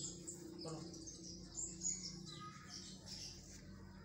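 Birds chirping repeatedly in short high calls, over a faint steady low hum.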